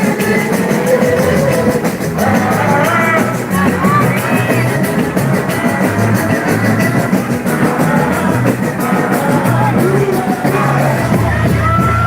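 Live boi-bumbá toada: a singer's melody over a band with drums and plucked strings, playing loudly and without a break.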